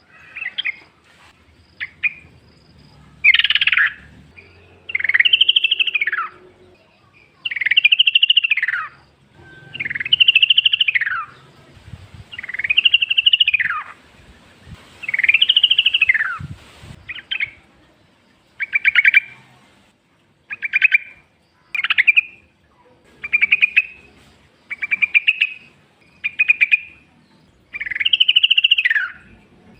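Yellow-vented bulbul (trucukan) singing: loud bubbly phrases that rise and then fall, repeated about every two to three seconds, turning into shorter clipped phrases in the second half.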